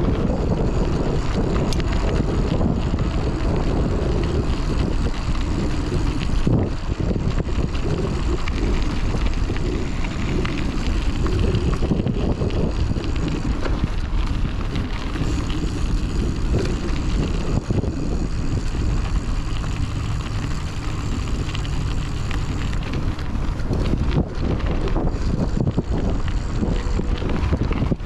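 Wind buffeting a chest-mounted action-camera microphone over the rolling rumble of a hardtail mountain bike riding an off-road trail, with scattered clicks and rattles as it goes over bumps.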